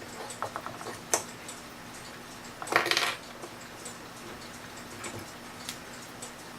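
Small metal clicks and clinks from handling the parts of a clock movement: a quick run of light ticks, a single click, then a louder short cluster of clinks about three seconds in. A faint steady hum lies underneath.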